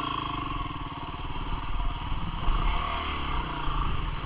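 250 cc single-cylinder four-stroke dual-sport motorcycle engine running at low trail speed, its revs dipping briefly about three seconds in and picking back up.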